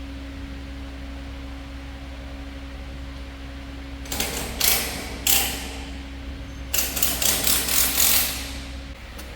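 Sharp metallic rattling and clattering: a few bursts about halfway through, then a quick run of rattles near the end, over a steady low mechanical hum.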